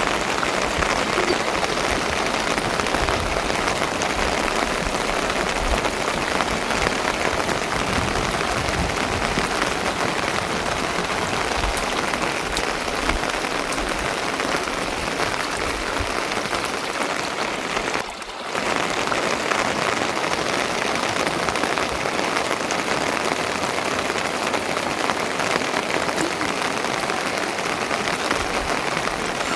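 Steady rain falling, an even hiss that dips briefly about eighteen seconds in.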